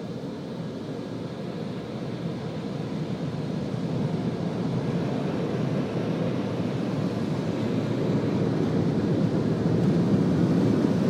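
Automatic car wash equipment heard from inside the car: a steady rushing roar that grows gradually louder.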